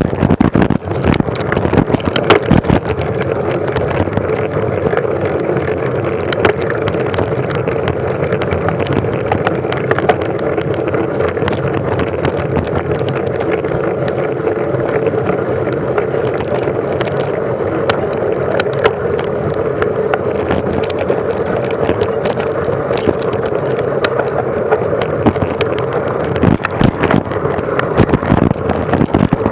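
Rushing wind noise over a moving camera's microphone, with frequent sharp knocks and rattles throughout, typical of a mountain bike riding fast over a rough forest track.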